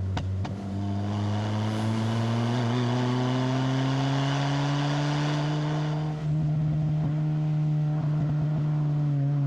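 Proton Inspira's 4B11 MIVEC four-cylinder running through a MAX Racing R5500 aftermarket muffler, pulling under load with the revs rising steadily for about six seconds. There is a brief dip around six seconds in, then it holds steady. A few sharp ticks come right at the start.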